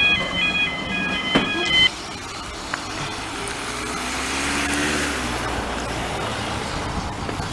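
A run of short, repeated high tones cuts off about two seconds in. A low engine rumble follows, its hum rising and then falling gently in pitch.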